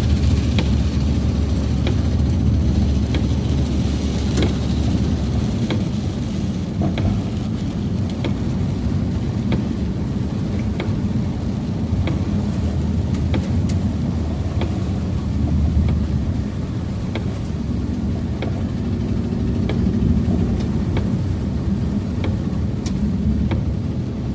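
Steady road and engine noise of a car driving, heard from inside the cabin, with scattered light ticks at irregular intervals.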